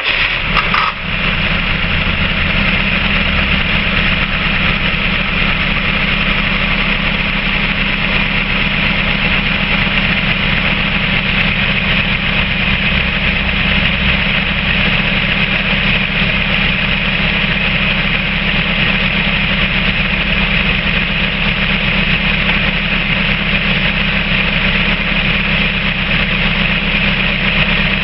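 Peugeot 406 1.8-litre LFX petrol four-cylinder engine just started, settling within the first second and then idling steadily.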